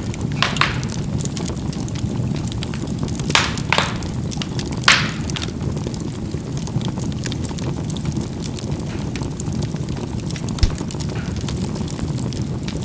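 Charcoal burning in a fireplace: a steady low rush of fire with a few sharp crackling pops in the first five seconds, the loudest about five seconds in, and a brief dull knock near the end.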